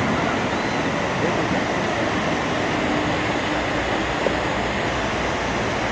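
Floodwater of a swollen mountain river rushing past in a steady, loud roar of water.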